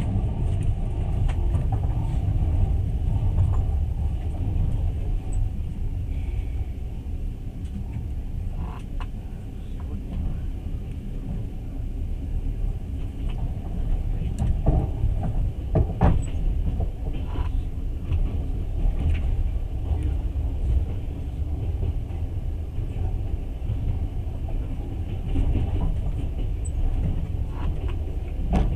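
Passenger train running, heard from inside the carriage: a steady low rumble with occasional short knocks, a cluster of them about halfway through.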